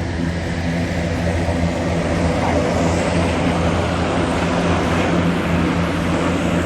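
Propeller-driven aircraft flying overhead, its engine running with a steady low drone that grows a little louder in the first couple of seconds.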